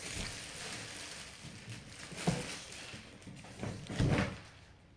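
Rustling and scraping of cardboard and styrofoam packing being rummaged through, with a few knocks, the loudest about four seconds in.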